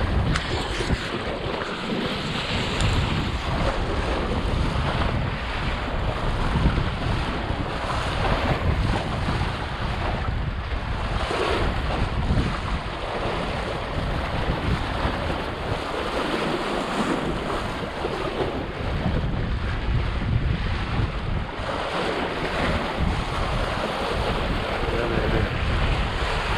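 Strong wind buffeting the microphone with water splashing and rushing around a small sailboat under sail; a steady noisy rumble without let-up.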